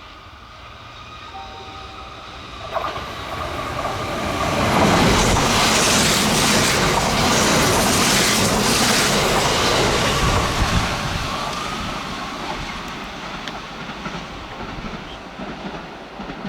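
Kintetsu electric train passing at speed, wheels clattering over the rail joints. It grows loud over the first few seconds, stays loud for about five seconds, then fades away.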